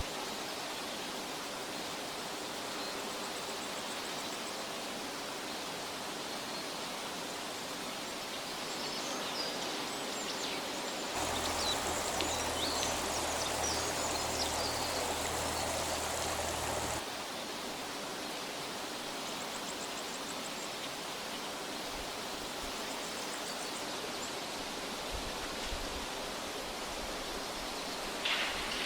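Steady rushing outdoor noise with no speech. For about six seconds midway it abruptly turns louder and fuller, with a low rumble, then drops back, and a few faint high chirps come through near the middle.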